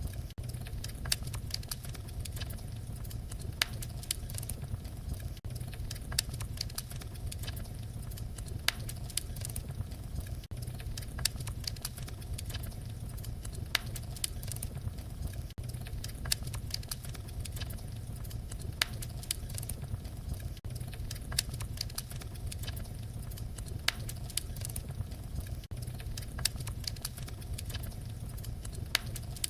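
Wood fire crackling in a fireplace, with irregular sharp pops and snaps over a steady low rumble of the flames.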